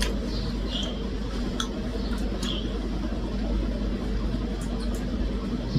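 Eating sounds, with a few small clicks and clinks from utensils or dishes, over a steady low background hum.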